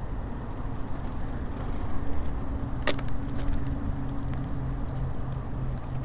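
A motor vehicle's engine running steadily with a low hum that grows a little stronger about a third of the way in, and a single sharp click near the middle.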